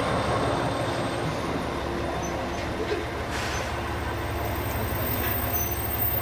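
Train at the station platform, its running gear and engine giving a steady low rumble, with a few brief faint high squeaks.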